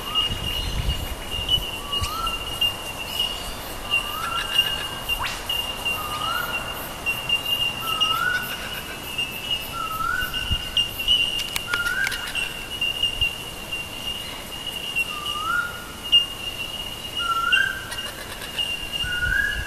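A bird repeating a short upward-stepping call about every two seconds, roughly ten times, over a steady high-pitched tone that runs throughout.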